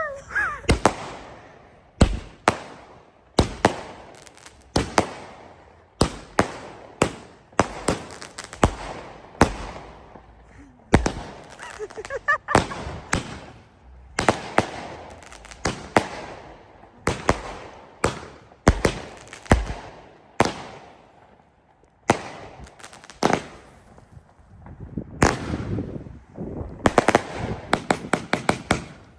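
Multi-shot consumer firework cake firing: a string of sharp bangs, roughly one a second, each trailing off with an echoing crackle. It falls quiet briefly about two-thirds of the way through, then a faster cluster of crackling reports comes near the end.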